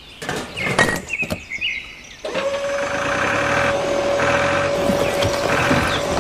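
A few clattering knocks, then from about two seconds in a steady motor whine over a hiss, as the mini truck unloads.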